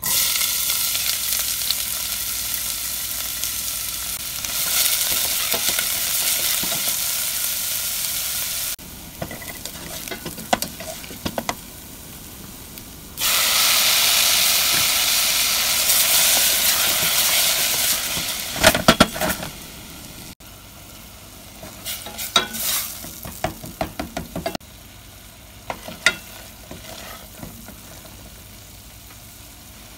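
Chopped onion sizzling as it hits hot oil in a stainless steel pot. A wooden spoon then clicks and scrapes against the pot. Diced tomatoes go in about halfway through and set off a second loud sizzle, followed by more spoon scraping near the end.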